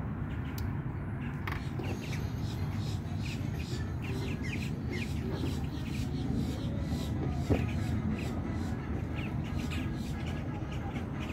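Birds calling in many short, high chirps and caws over a steady low rumble of outdoor background noise.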